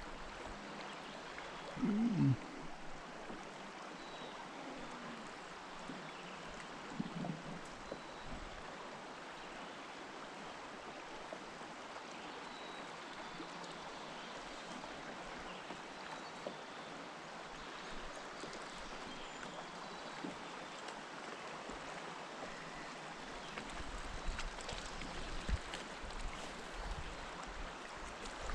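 River water running steadily around the boat, an even rushing wash. A brief louder sound comes about two seconds in, and a few faint knocks come near the end.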